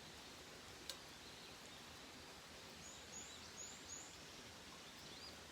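Near silence: faint steady outdoor background with a single sharp click about a second in, then four short high chirps a little past the middle.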